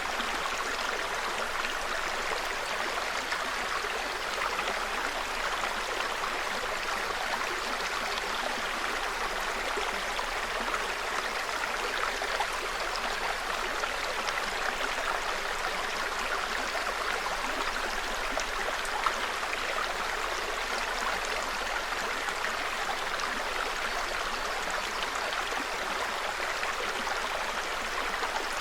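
Small forest stream babbling steadily, an even rush of running water that never breaks or changes.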